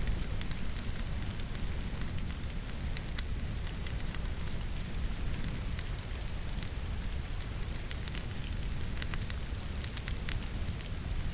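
Wood burning in a fireplace, crackling with scattered sharp pops, over a steady patter of rain and a low rumble.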